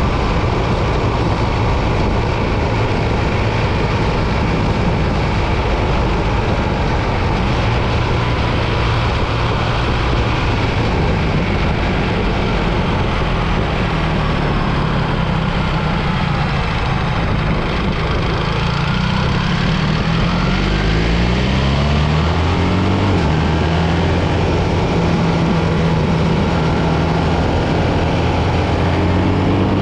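BMW R 1300 GS boxer-twin motorcycle engine running under way, with a steady rush of wind and road noise. About two-thirds of the way through, the engine note climbs in steps as the bike accelerates, then settles.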